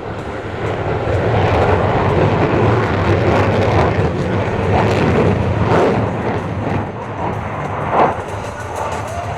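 Fixed-wing aircraft engine running, a steady rushing noise over a low hum, with a short louder burst about eight seconds in.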